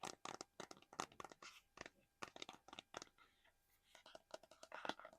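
Fingernails tapping and scratching quickly and irregularly on small plastic collectibles held close to the microphone. There is a short lull a little past three seconds, then a dense flurry near the end.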